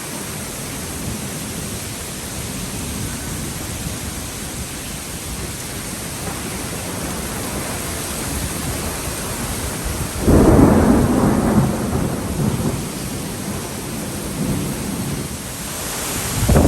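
Severe thunderstorm: a steady rush of rain and wind, broken by a sudden loud rumbling burst about ten seconds in that lasts a couple of seconds, and another building near the end.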